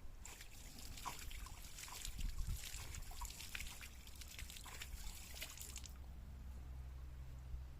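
Water trickling and splashing, with many small drips and spatters, for about six seconds; then it stops, leaving a low steady rumble.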